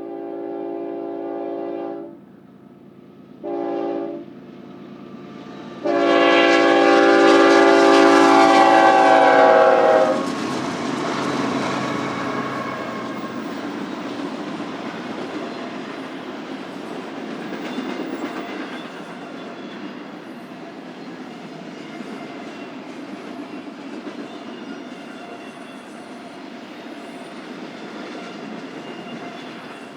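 BNSF freight locomotive horn sounding a chord in three blasts: a long one that ends about two seconds in, a short one near four seconds, and the loudest and longest from about six to ten seconds. After the horn, the intermodal train rolls by with a steady rumble and clickety-clack of wheels on the rails.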